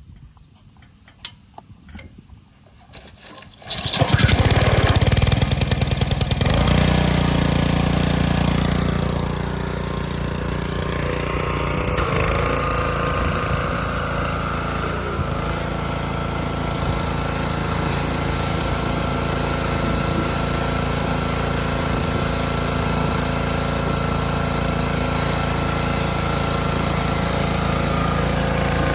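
A pressure washer's small engine starts suddenly about four seconds in, then runs steadily at a constant pitch.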